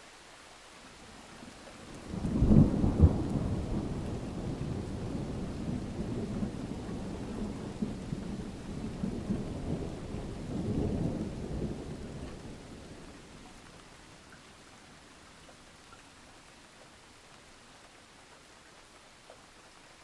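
A thunderclap over steady rain: a sudden loud crack about two seconds in, rolling into a deep rumble that swells again around ten to eleven seconds, then fades out, leaving the rain's soft hiss.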